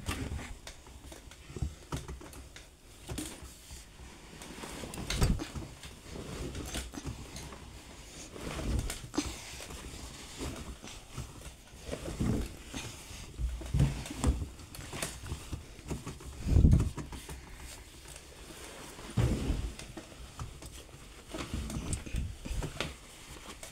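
Washing machine drum tumbling a load, with irregular dull thuds and light clicks every second or few.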